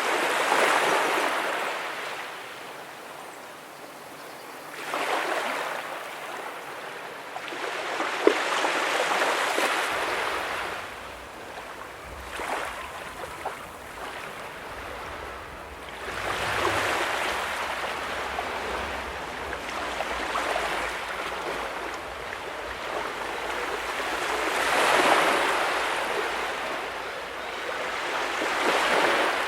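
Small ocean waves breaking and washing up the beach, in slow surges that swell and fade every several seconds, with one short click about a quarter of the way through.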